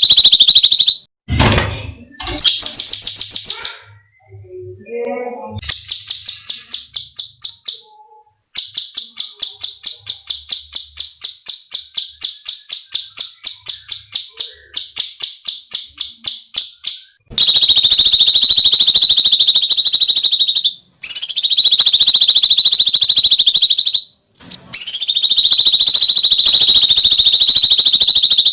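Cucak cungkok songbird calling loudly in harsh, drawn-out shrieks. From about a third of the way in to past the middle it switches to a rapid run of repeated sharp notes, about four or five a second, then returns to long screeching calls with brief breaks between them.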